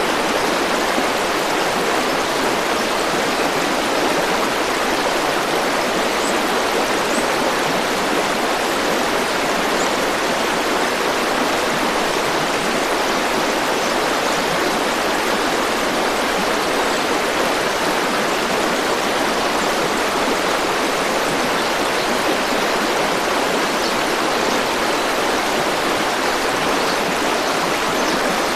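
A river flowing, an even rush of water that stays steady throughout.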